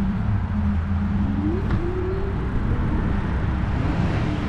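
Steady low wind and road rumble on a moving e-bike, with traffic noise and a low hum that rises in pitch about a second and a half in.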